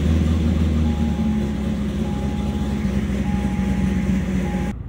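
2005 Corvette C6's 6.0-litre LS2 V8 idling just after starting, warming up and easing down from a fast idle. A faint chime beeps on and off over it, and the sound cuts off suddenly near the end.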